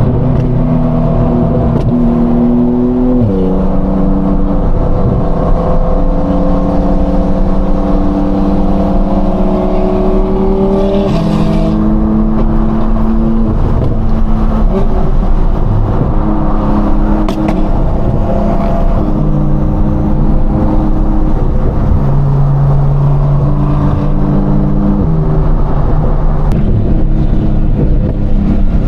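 Sports car engine cruising at fairly steady revs, heard through open car windows; its note steps to a new pitch every several seconds as the revs change, with a few brief sharp cracks.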